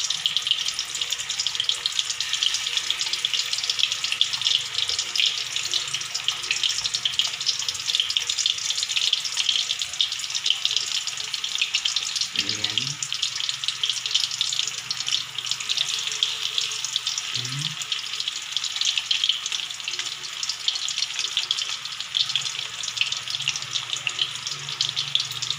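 Raw pork meatballs frying in a little oil in a wok: a steady sizzle with fine crackling.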